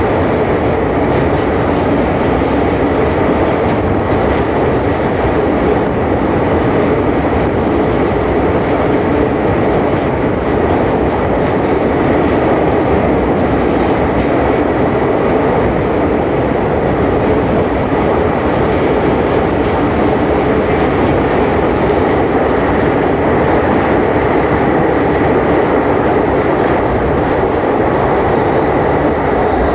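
Passenger train running steadily on the rails, a continuous rumbling roar of wheels and carriage, with brief faint high hisses or squeals now and then.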